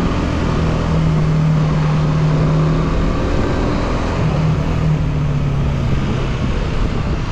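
Hero Karizma XMR 210's single-cylinder engine running at a steady pace while the motorcycle is ridden, over a steady rushing noise.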